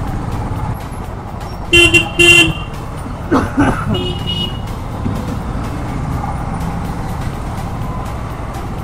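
Royal Enfield Thunderbird 350X's single-cylinder engine running steadily in slow, dense traffic. Vehicle horns honk twice in quick succession about two seconds in, and once more, shorter and fainter, around four seconds.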